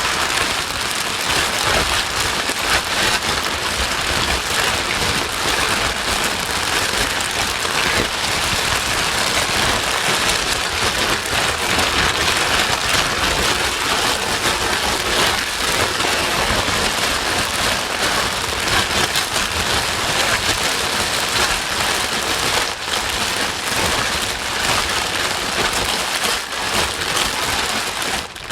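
Steady, loud white-noise hiss with a rain-like texture, played continuously as a baby-soothing sleep sound; it dips briefly near the end.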